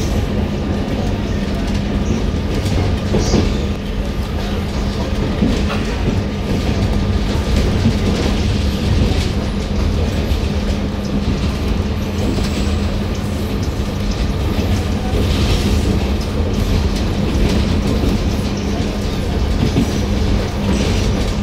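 Steady rumble of a moving passenger train heard inside the carriage, with wheels clicking over rail joints and a steady low hum.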